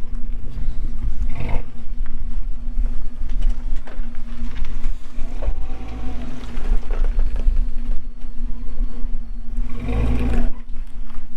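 A vehicle engine idling with a steady hum, while wind buffets the microphone with low rumble; a brief louder swell comes near the end.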